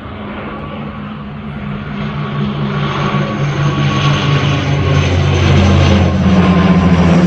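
Airplane flying low overhead, its engine drone growing steadily louder as it approaches.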